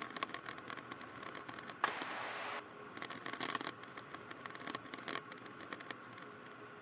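Cockpit headset intercom audio in a Cessna 152: a faint steady hiss with scattered crackles and clicks, and a short burst of louder hiss about two seconds in that starts with a click and cuts off suddenly.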